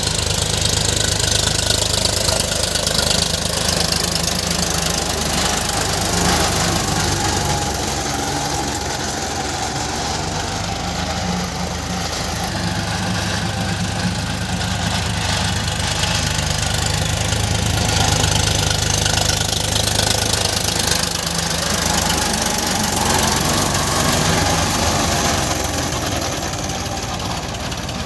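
Tractor engine running steadily, with a dense hiss over it.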